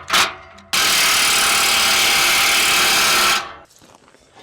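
Cordless power tool tightening an exhaust clamp on a pipe. Two quick blips, then about three seconds of steady running that stops abruptly.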